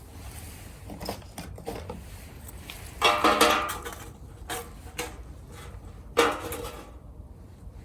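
Metal camp cookware clinking and knocking, with two louder ringing strikes about three seconds in and just after six seconds in, over a steady low rumble.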